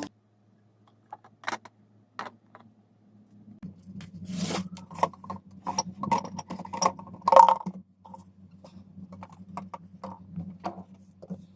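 Scattered light clicks, knocks and scrapes of small objects being handled, busiest in the middle, over a steady low hum that comes up about a third of the way in.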